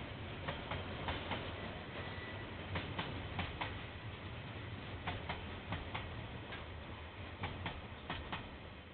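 KiwiRail train's wagons rolling past over a low rumble, their wheels clicking over rail joints in close pairs, slowly fading.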